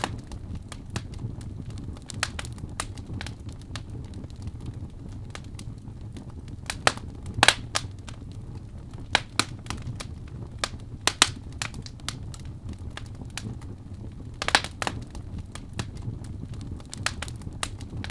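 Fire crackling in a fireplace: irregular sharp pops and snaps over a steady low rumble, with a few louder pops near the middle and again about three quarters of the way through.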